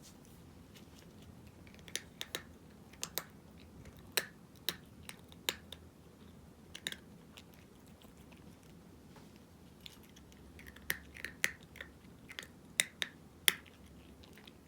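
A cat crunching dry kibble: sharp crunches come in two bouts, with a pause in the middle.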